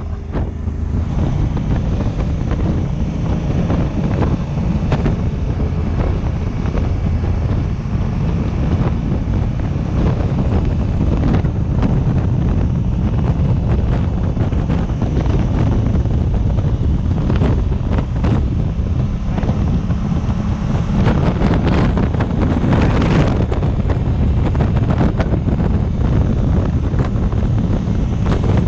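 Heavy wind buffeting on the microphone from riding at speed on a Honda African Twin motorcycle, with the parallel-twin engine's steady drone underneath.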